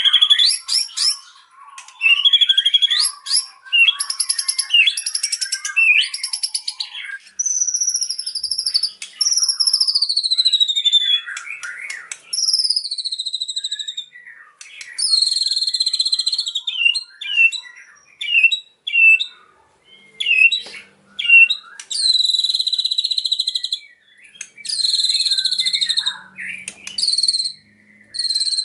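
White-rumped shama (murai batu) singing a long, varied song that includes mimicked phrases. It moves between fast trills and chattering runs, long whistles that fall in pitch, and held whistled notes with a buzzy edge, with short pauses between phrases.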